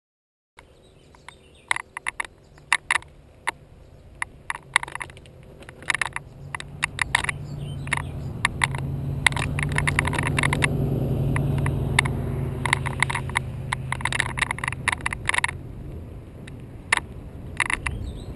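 GoPro camera clicking and rattling inside its housing on a helmet mount, in irregular sharp clicks, the noise that the white rubber sound insulator is meant to stop. Under the clicks a low rumble of wind and motion grows louder toward the middle and eases off near the end.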